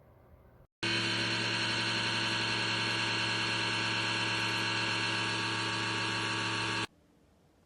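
AYAFATO mini dehumidifier running: a steady motor hum with a fan hiss. It starts abruptly about a second in and stops abruptly near the end.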